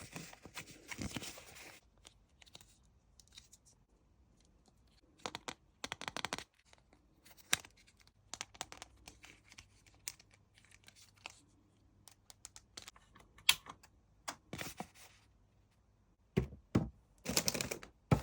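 A Kinder Surprise egg being unpacked by hand: scattered clicks, taps and crinkles of its plastic capsule, wrapping and small toy parts, with a few tearing sounds. A louder run of sharp clicks and rustles comes near the end.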